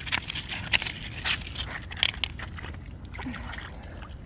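Creek water trickling, with irregular light clicks and taps through the first two seconds that then thin out.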